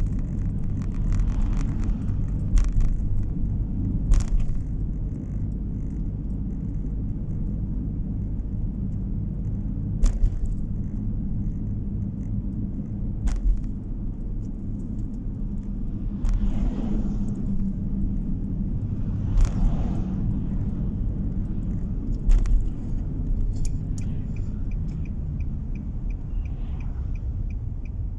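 Car interior driving noise: a steady low rumble of engine and tyres on the road, with occasional sharp knocks and bumps as the car rides over the road surface.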